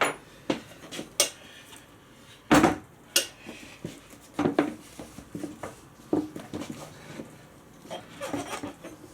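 Metal tyre-changing tools clinking, knocking and scraping against the wheel rim while a tyre bead is levered onto a Honda CT110 Postie bike wheel. Irregular clinks and knocks, the loudest about two and a half seconds in.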